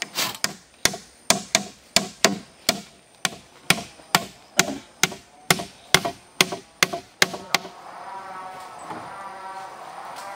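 Wood being chopped with a blade: a quick, even run of sharp strikes, two or three a second, that stops about three-quarters of the way through.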